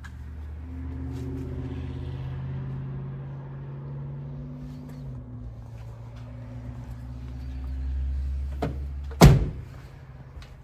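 A car engine idles steadily, its note shifting slightly about halfway through. Near the end a car door is shut with one loud thud.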